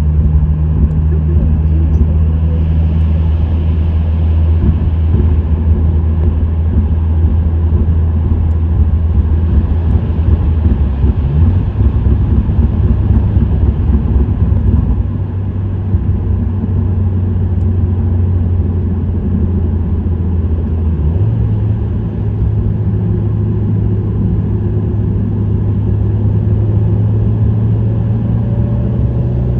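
Subaru WRX STI (VAB) turbocharged 2.0-litre flat-four engine and STI Performance muffler exhaust at steady cruise, with a constant low engine note over road noise. The note jumps up in pitch twice, about a third and about two-thirds of the way through.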